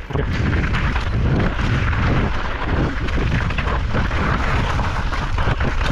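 Wind rumbling over the camera microphone while a mountain bike rolls fast down a steep trail of loose gravel and rock, its tyres crunching and the bike rattling over the rough ground. The noise comes in sharply right at the start and stays loud.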